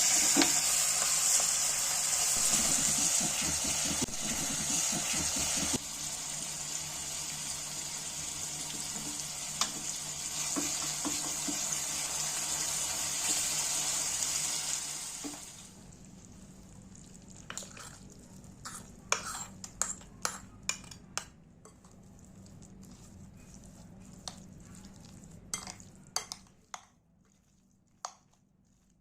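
Food sizzling loudly in hot oil in a pan for about fifteen seconds. Then the sizzle dies down and a spoon stirs, scraping and clinking against the pan in scattered taps.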